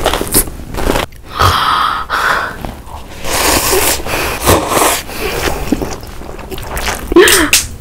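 A person's breathy, non-speech noises, gasps and snorts, coming in short loud spells with brief gaps between them.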